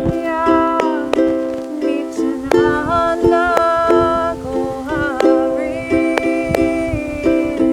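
Ukulele strummed in a steady rhythm over a held low drone note, with a voice singing a slow, drawn-out kirtan chant melody.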